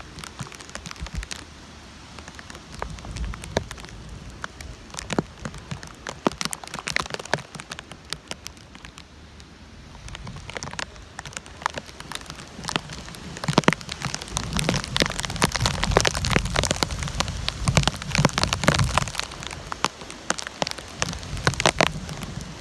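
Heavy rain from a tropical storm band falling and splattering on surfaces, with many close drip impacts and a low gusty rumble, growing heavier about two-thirds of the way in.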